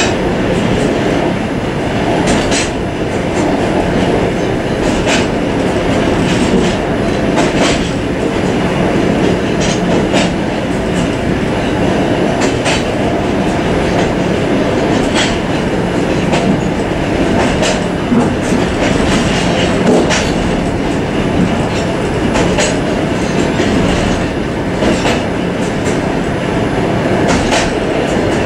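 Suburban train running, heard from inside its vestibule: a steady rumble of wheels on the track, with a sharp clack of the wheels over rail joints about every two and a half seconds.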